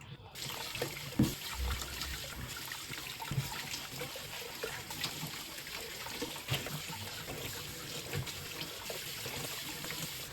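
Water running steadily from a kitchen tap, with scattered small knocks, as of dishes or utensils in the sink. It starts just after the beginning and cuts off abruptly at the end.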